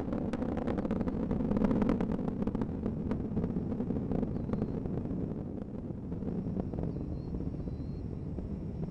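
Space Shuttle Discovery's rocket exhaust during ascent, heard as a steady deep rumble. Dense crackling in the first few seconds thins out, and the roar eases slightly as the shuttle climbs away.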